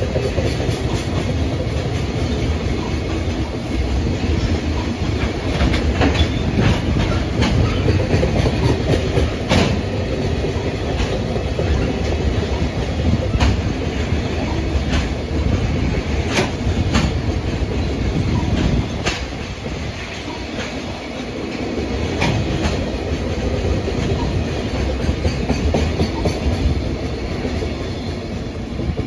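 A train running past on the rails, its wheels clicking irregularly over rail joints.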